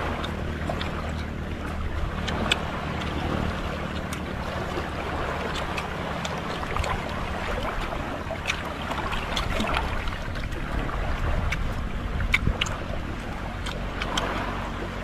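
A person eating, with scattered sharp clicks and smacks of chewing or handling food, over a steady low hum.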